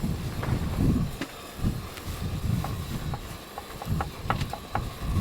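Strong gusty wind buffeting the microphone in uneven rumbling surges, with a run of short sharp clicks a little before the end.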